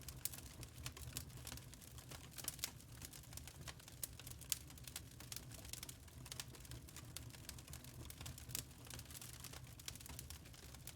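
Fireplace wood fire crackling: irregular small pops and snaps over a low steady rumble.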